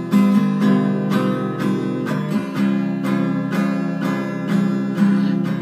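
Acoustic guitar strummed in a steady rhythm of about four strokes a second, changing chords a couple of times.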